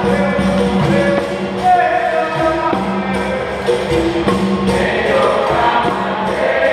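Capoeira Angola roda music: a chorus of voices singing over the bateria of berimbaus and pandeiro, with a steady, even beat.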